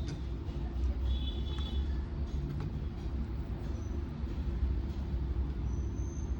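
Steady low background rumble with a hum, with a few faint high chirps about a second in, a faint rising high tone near the end, and a few light clicks.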